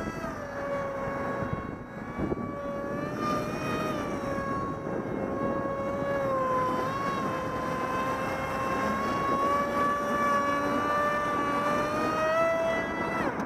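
Small RC foam jet's 450-size 2200kv brushless electric motor and 6x4 propeller whining at a near-steady pitch as the throttle is worked in small amounts. The pitch climbs near the end, then the throttle is cut suddenly. Wind rushes across the microphone underneath.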